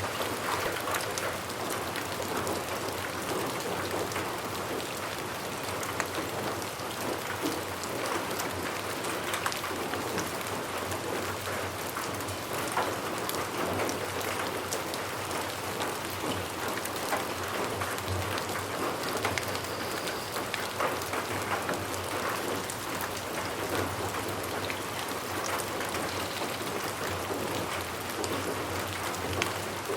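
Steady rain falling on a surface, with many fine drop ticks over an even hiss.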